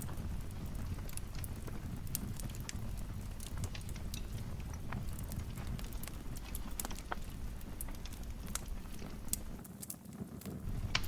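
Fire in a fireplace crackling, with irregular sharp pops over a steady low rumble; the sound dips briefly near the end.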